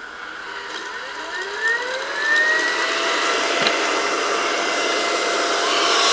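Xiaomi Viomi VXRS01 robot vacuum cleaner's brushless suction fan spinning up as it starts cleaning: a rising whine that levels off after about two and a half seconds, then runs steadily over a rushing airflow noise. A single short click a little past the middle.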